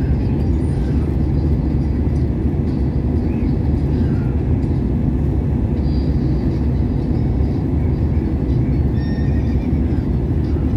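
Steady, loud rumble of airliner cabin noise from the engines and airflow, unchanging throughout. A few faint, short high tones come about nine seconds in.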